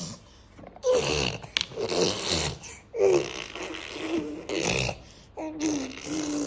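A small child blowing wet raspberries through pushed-out lips, spraying spit, in about five bursts mixed with voiced babbling.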